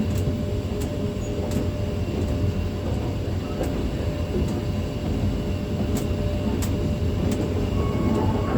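Steady low rumble of a moving vehicle, with a faint steady hum and scattered sharp clicks.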